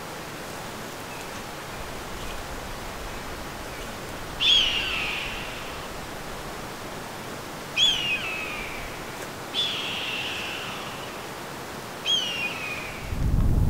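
A bird calling four times, each a short call sliding downward in pitch, over a steady outdoor hiss. Wind buffets the microphone near the end.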